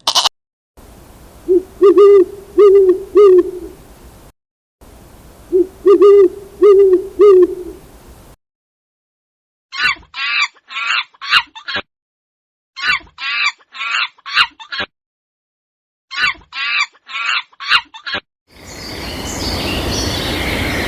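Animal calls: two phrases of about four low hoots each, then three quick runs of sharper, higher-pitched calls, then a steady noisy outdoor ambience near the end.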